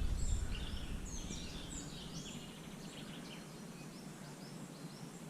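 Birds chirping and twittering outdoors: many short, high calls overlapping. A low rumble fades out over the first two seconds.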